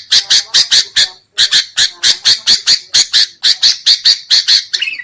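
Sooty-headed bulbul (kutilang) giving a fast run of harsh, agitated chattering calls, about four to five a second, with a brief break about a second and a half in and stopping near the end. This is the excited 'ribut' chatter used as a lure call to draw wild bulbuls.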